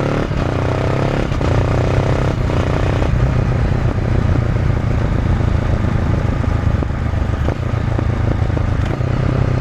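Honda CB500F parallel-twin through an SC Project Conic titanium slip-on exhaust, accelerating hard: the revs climb and drop at three quick upshifts made without a quickshifter in the first three seconds, then the engine runs on steadily. Wind noise on the microphone throughout.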